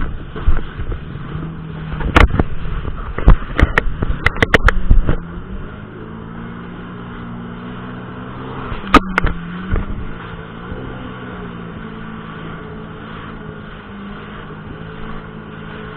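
Jet ski engine running at a steady pace. Sharp thumps cluster in the first five seconds, with another pair about nine seconds in.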